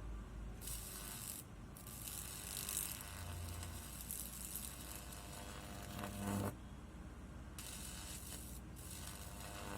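High-voltage arc from a microwave oven transformer crackling in bursts: a short one, then a long one of about four and a half seconds, then another near the end. A low hum comes through briefly in the middle of the long burst.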